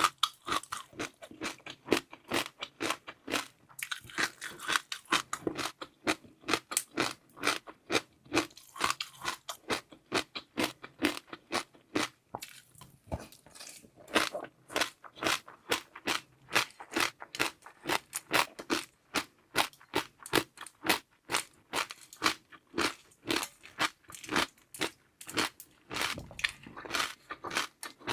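Close-miked chewing of a dessert of seaweed pearls and jelly: quick, crisp crunches and wet mouth clicks, several a second.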